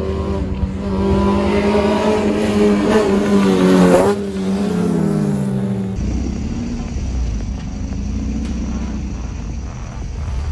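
Honda Civic's swapped K20A engine through an aftermarket exhaust, loud: its pitch climbs up to about four seconds in, then drops away. About six seconds in it gives way to a lower, steady engine note.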